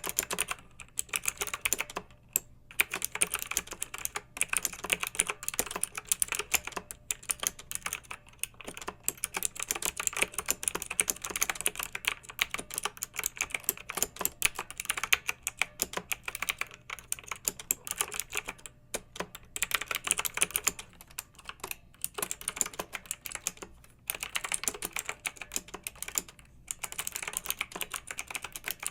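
Fast typing on a clicky mechanical keyboard: dense runs of sharp keystroke clicks, broken by short pauses of about half a second now and then.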